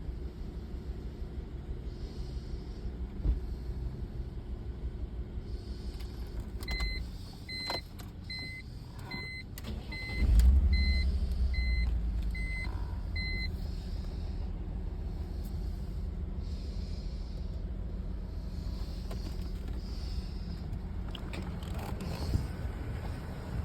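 BMW engine running at idle, then stopping, while a dashboard warning chime beeps about ten times, roughly every half second or so. About ten seconds in, the engine starts again with a loud surge and settles back to a steady idle; the car has a misfire on cylinder 2.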